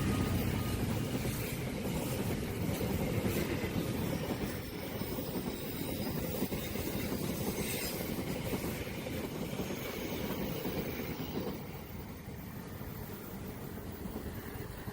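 A long train's wagons rolling past on the rails as a steady rushing noise of wheels and cars. The noise drops off about three-quarters of the way through as the train recedes.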